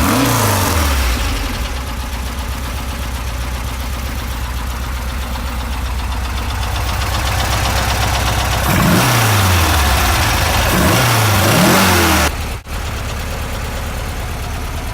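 Porsche 914's air-cooled flat-four, a 2356 cc stroker build, just started: the revs fall back to a steady idle, then a few throttle blips raise and drop the pitch between about 9 and 12 seconds in.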